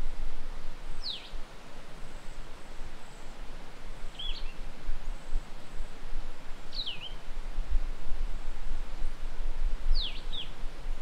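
A bird calls four times, a few seconds apart, each call a short note sliding down in pitch, over a steady low rumble.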